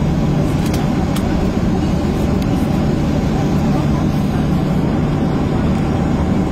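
Steady engine and airflow noise inside a passenger jet's cabin: a constant low hum under an even rush, with a few faint ticks about a second in.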